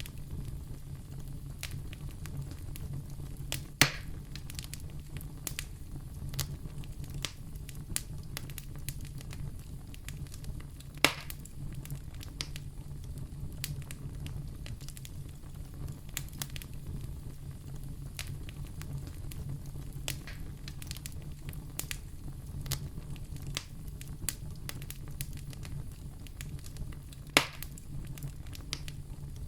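Wood fire burning in a fireplace, crackling steadily with many small snaps and three louder pops, over a steady low rumble.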